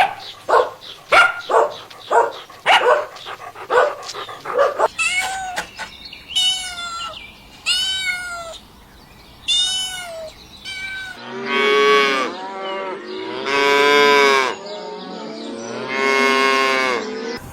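A string of short barks from a dog, then several higher, arched meowing calls, then a cow mooing three times in long, low calls.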